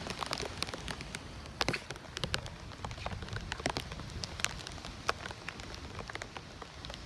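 Rain falling, with scattered drops striking close by as irregular sharp ticks over a steady hiss.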